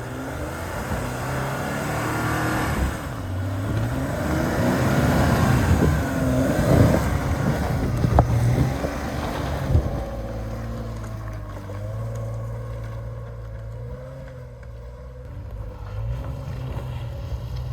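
A 4x4's engine working under load at low speed on a rough trail, its pitch rising and falling with the throttle. The loudest stretch, about a third to halfway through, carries a few sharp knocks. After that the engine settles to a steadier, quieter run.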